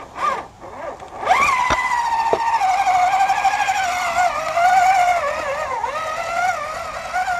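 A radio-controlled scale rock crawler truck driving under throttle: a high pitched whine that jumps up about a second in, then wavers up and down as the throttle changes.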